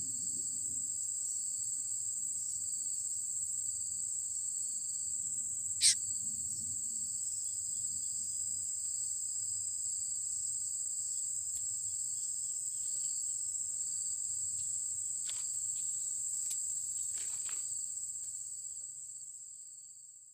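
Steady high-pitched drone of insects, unbroken throughout, over a low outdoor rumble. A single sharp short sound cuts through about six seconds in, and a few faint ticks come later; the sound fades out near the end.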